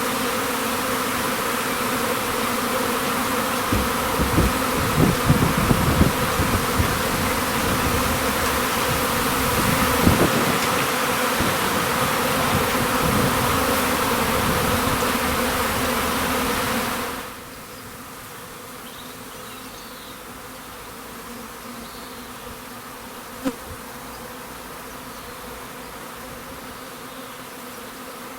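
Honeybee swarm buzzing as a dense, steady hum, with a few low thumps in the first part. About two-thirds of the way through the hum drops suddenly to a much quieter level and carries on.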